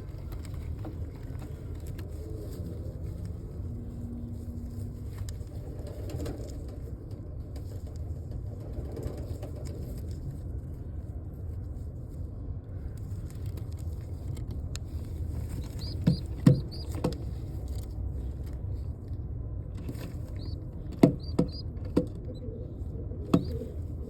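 Steady low rumble with a scatter of sharp knocks and taps in the second half, two close together and then three more; handling noise at pigeon nests.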